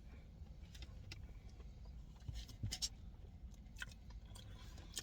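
Faint scattered clicks and small ticks over a low steady hum, with a small cluster of them between about two and three seconds in.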